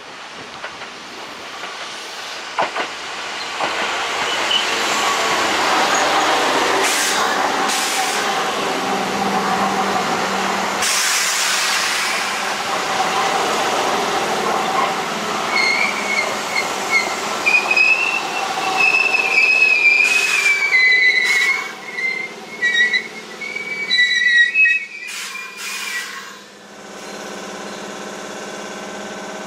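A Keihan electric train running on the rails, its rolling noise building over the first few seconds. In the second half the wheels squeal with a high, wavering pitch for about ten seconds, with scattered sharp clicks and a brief hiss of air. The squeal fades into a softer steady hum near the end.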